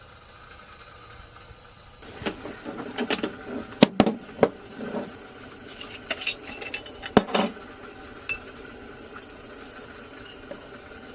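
Pots, dishes and utensils clinking and knocking together. A run of sharp clatters starts about two seconds in, the loudest near four and seven seconds, and then it settles.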